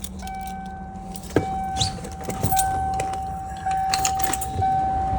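Warning chime in the cab of a 1999 Ford F-350 7.3 diesel shuttle bus: one steady high tone that pulses about once a second, with several sharp clicks and knocks over a low rumble.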